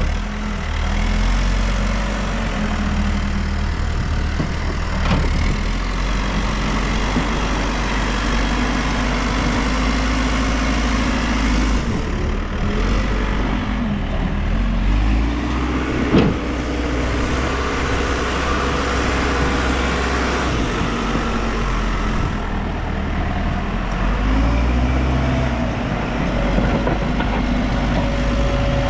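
New Holland backhoe loader's diesel engine running and rising and falling in speed as it works the hydraulics. A single sharp knock comes just past halfway.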